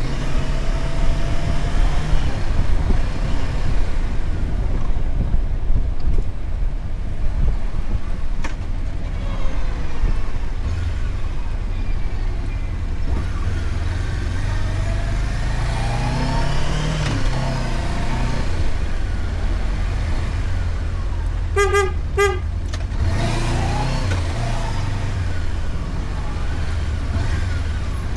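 Motorcycle engine running on a city ride, rising in pitch as the bike speeds up twice. A vehicle horn gives two short toots about two-thirds of the way through.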